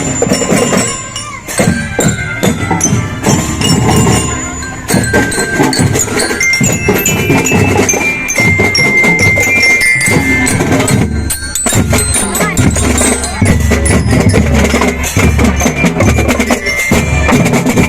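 A school drum band playing: rapid drum strikes with a marching glockenspiel (bell lyre) carrying a stepping melody.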